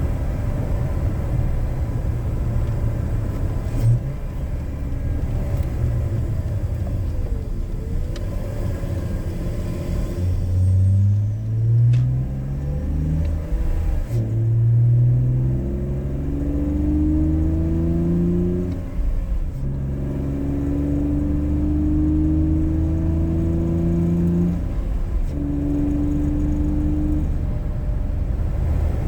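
BMW E46 inline-six engine with a K&N intake, running steadily while cruising for about ten seconds. It then accelerates through the gears, its note rising in pitch and dropping briefly at each of several gear changes.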